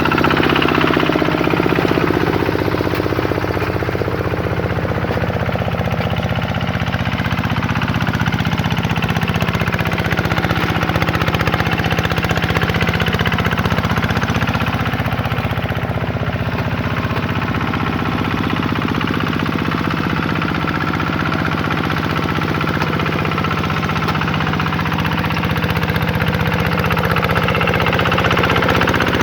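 Vikyno RV125-2 two-wheel hand tractor's single-cylinder diesel engine running steadily while plowing a paddy field.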